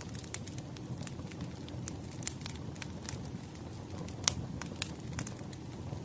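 Wood fire crackling: irregular sharp pops and snaps over a low steady rumble, with one louder pop a little past four seconds in.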